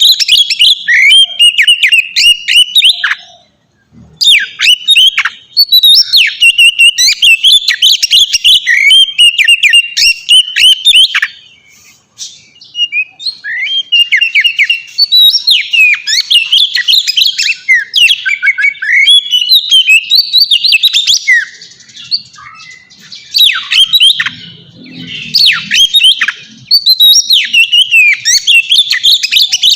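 Oriental magpie-robin (kacer) singing a loud, fast, varied song of whistles and chirps, in long unbroken phrases with brief pauses about four and twelve seconds in.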